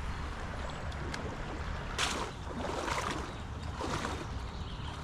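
Steady rush of a high-running creek, with the crunch and splash of footsteps about once a second around the middle.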